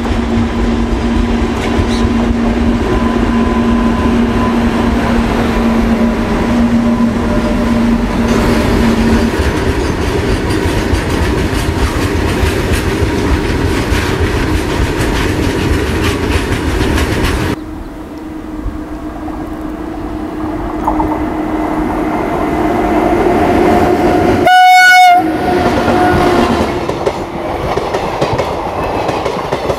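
Indian Railways trains passing at speed: a continuous heavy rumble and clatter of wheels on the track, with a steady low tone under the first third. Near the end, a locomotive horn gives one short, loud, high blast while passenger coaches rush past.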